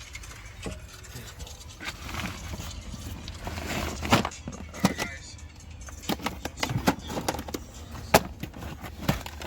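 Scattered sharp clicks and knocks of hard objects being handled, a few seconds apart, over a low steady hum.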